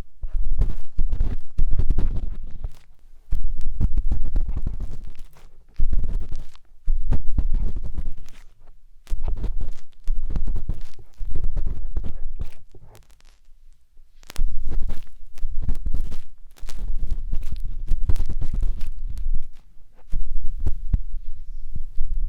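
Close scratching and rubbing inside a 3Dio binaural microphone's silicone ear, in spells of one to three seconds with short pauses between. Each spell carries a deep rumbling thud from the microphone; there is a longer pause a little past halfway.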